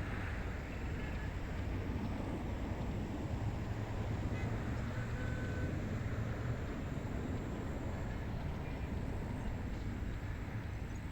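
Steady wind ambience over a rice paddy: an even rushing noise, heaviest in the low end. A low rumble swells for a few seconds in the middle.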